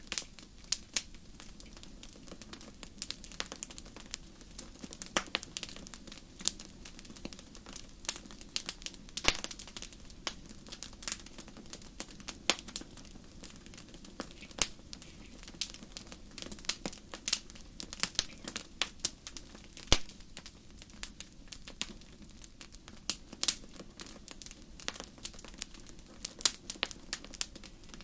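Campfire crackling: irregular sharp pops and snaps over a soft low hiss of burning wood.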